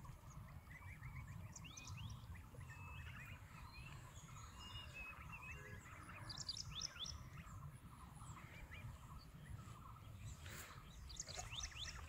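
Small birds chirping in quick runs of short high notes that come back every few seconds, over a faint steady low rumble of outdoor noise.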